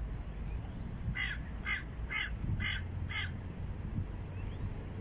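A bird gives five harsh calls in quick succession, about two a second, over a steady low background rumble.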